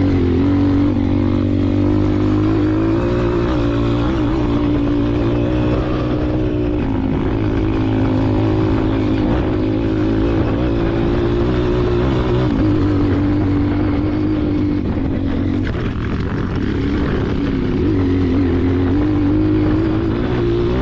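Dirt bike engine running under way, its pitch rising and falling continually with the throttle.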